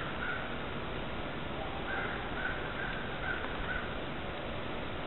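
A bird calling in the background: a short call near the start, then a run of five short calls about 0.4 s apart, over a steady hiss.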